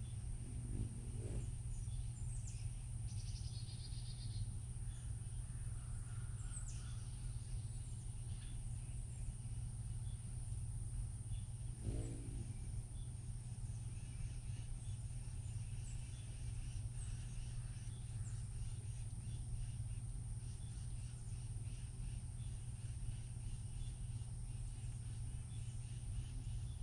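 Outdoor ambience: a steady low hum with a faint, steady high-pitched tone over it, and scattered short, faint bird chirps and quick high downward sweeps throughout.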